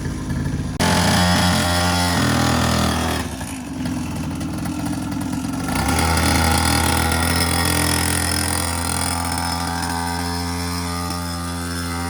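Small two-stroke quad bike engine running. It revs up about a second in, eases off around three seconds, then picks up again near six seconds and holds a steady note.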